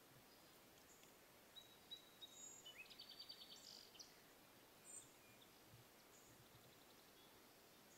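Faint songbird calls over a low steady hiss: a few short whistled notes and a rising chirp, then a rapid trill about three seconds in, and a thin high chirp around five seconds.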